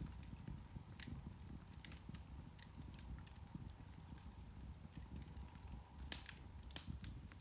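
Irish turf (peat) fire crackling: scattered small pops and snaps over a low rumble, with a sharper pop about six seconds in.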